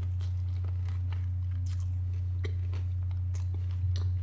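A person chewing a barbecue-sauced fried chicken tender close to the microphone: soft, irregular crunches and mouth clicks. A steady low hum runs underneath and is the loudest thing.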